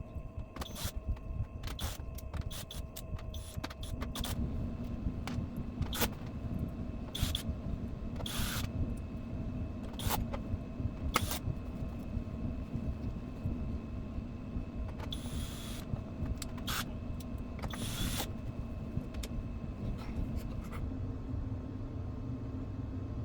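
Scattered sharp clicks, taps and a few short scrapes of hands working on parts, over a steady low hum that grows louder about four seconds in.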